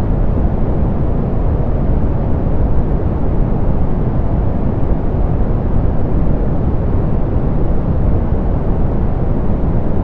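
Steady, softened pink noise: an even hiss weighted toward the low end, with little above a few thousand hertz, unchanging throughout.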